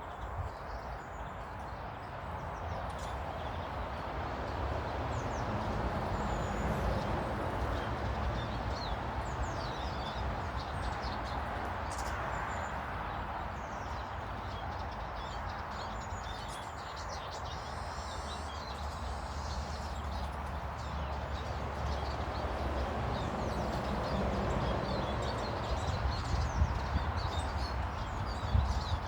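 Small garden birds chirping in short, scattered calls over a steady outdoor hiss and low rumble.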